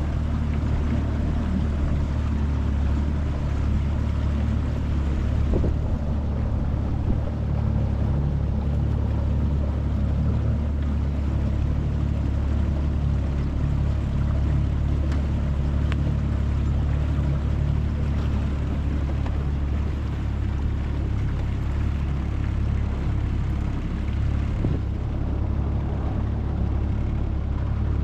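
25 hp Mercury four-stroke outboard running steadily as the jon boat cruises, a constant low drone with no change in speed.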